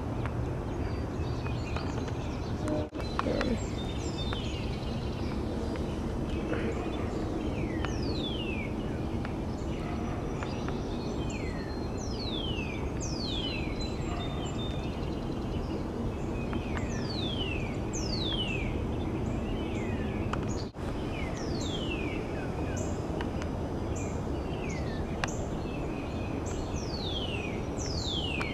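Birds calling: many short, high whistles that each fall steeply in pitch, repeating every second or two over a steady outdoor background rumble.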